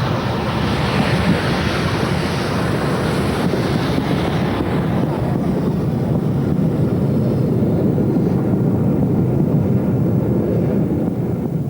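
A steam-hauled train running, a steady rushing noise with wind buffeting the microphone. A high hiss in it fades away about halfway through.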